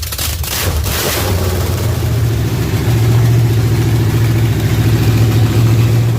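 Freshly built 388 cubic inch small-block Chevy V8 stroker (.060 over, stroker crank, Vortec heads, Edelbrock intake, Proform carburetor) running on its first startup, just after catching. Its speed climbs a little over the first couple of seconds and then holds at a steady fast idle.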